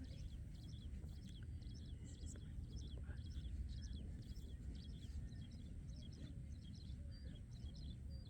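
Small birds chirping: short high chirps in quick clusters, repeating about twice a second, over a low steady rumble.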